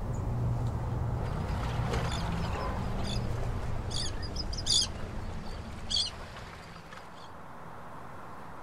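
A few short, high bird chirps, the loudest about four to six seconds in, over a low steady rumble of ambience that drops away near the end, leaving a faint hiss.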